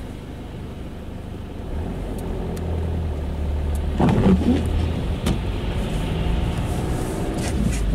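Car engine heard from inside the cabin, pulling away from a stop and accelerating, its low hum growing louder about two seconds in. Two short knocks come about four seconds in and near the end.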